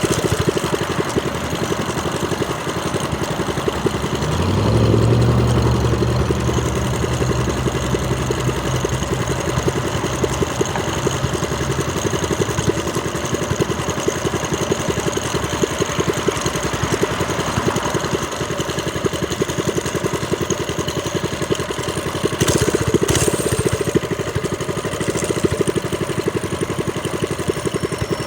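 Trailmaster Storm 200 minibike's small single-cylinder engine running, getting louder with more throttle about four seconds in, easing back after several seconds and picking up again briefly near the end.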